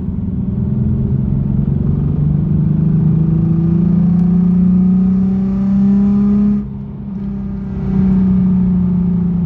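Nissan 370Z's 3.7-litre V6 with the muffler deleted, pulling under acceleration through a straight-pipe exhaust, its note rising steadily. Near the end the sound drops away suddenly for about a second, as when the throttle is lifted, then the engine pulls again.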